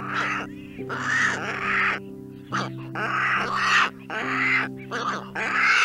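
A series of harsh, raspy animal calls, about seven of them, some short and some drawn out for about a second. Steady background music with held notes runs beneath them.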